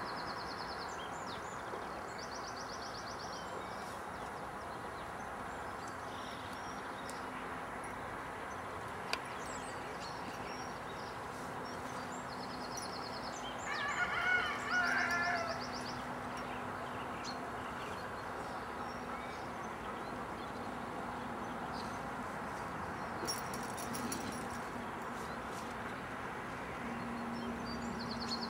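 Birdsong: a short, high trill repeating every few seconds, and a louder call of several notes about halfway through. Underneath runs a steady background hiss and a faint low hum.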